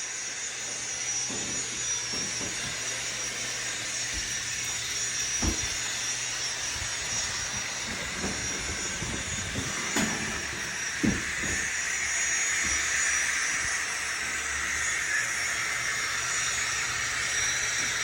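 Model Union Pacific GTEL 8500 gas-turbine locomotive's onboard sound playing a steady turbine hiss as the train runs, with a low hum under it. A few sharp clicks break in near the middle.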